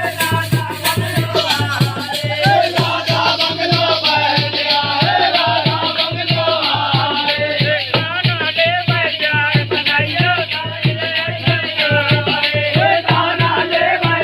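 Phag folk song: a man's voice singing loudly over rhythmic percussion, a steady drum beat of about three strokes a second with jingling, rattling strokes on top.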